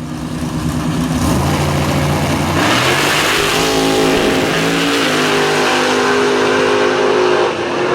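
Drag-racing car engine running loud at high revs, its pitch shifting as it goes, dropping off near the end.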